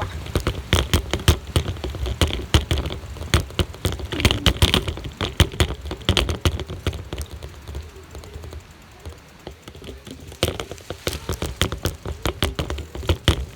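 Rattling during a bike ride over rough ground: dense, irregular clicks and knocks over a low rumble, easing off for a couple of seconds about two-thirds of the way through.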